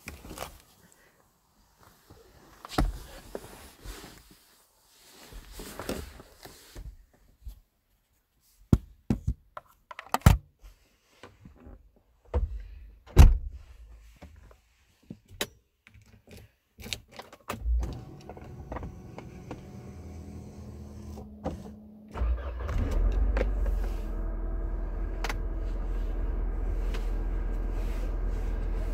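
Scattered clicks, knocks and jangles of keys and car fittings, then a brief whir of a small electric motor. About 22 seconds in, the 1993 Mercedes-Benz 220CE coupe's 2.2-litre four-cylinder engine starts and settles into a steady idle.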